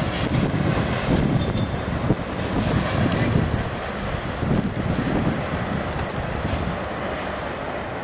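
Double-stack intermodal container train rolling past, its wheels rumbling and clattering on the rails with a few sharp clanks. The sound eases off as the last cars go by.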